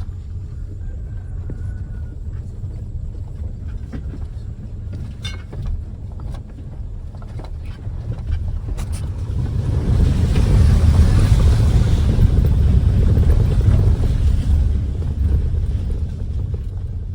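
Car driving over a rough track, heard from on board: a steady low rumble, with a few knocks. A louder rushing noise rises about halfway through and fades a few seconds before the end.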